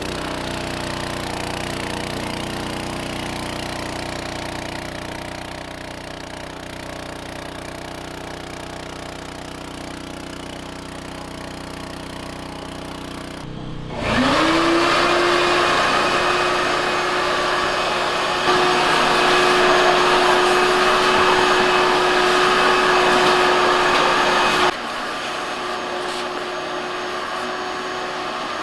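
Generator running with a steady hum. About halfway through, a vacuum cleaner switches on, its motor spinning up to a steady whine that stays loud for about ten seconds, then drops lower.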